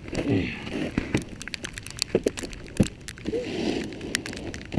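Irregular crunching and clicking of icy sleet, with a couple of short vocal sounds in between.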